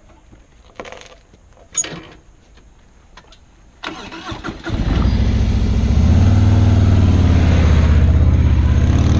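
Coleman CT100U mini bike's small single-cylinder engine being started: a brief spell of cranking about four seconds in, then it catches and settles into a steady idle. A few light knocks come before it.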